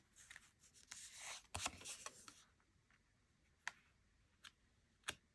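Tarot cards being handled on a table: a soft rustle of cards sliding for about two seconds, then three light clicks or taps.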